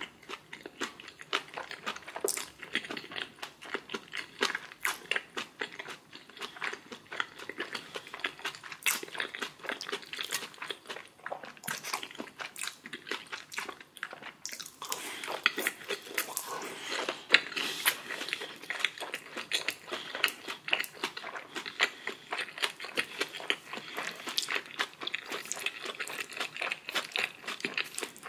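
Close-miked eating sounds: a person chewing and biting food with many wet smacks and crunches in quick succession, with a busier stretch about halfway through.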